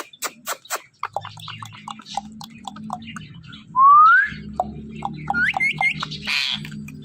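Pet parrot vocalizing: a run of sharp clicks in the first second, then short chirps, a loud rising whistle about four seconds in, a few quick rising whistles, and a harsh squawk near the end.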